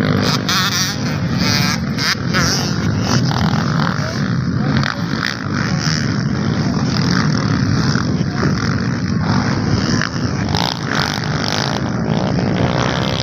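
Motocross dirt bikes racing, their engines running loud and steady.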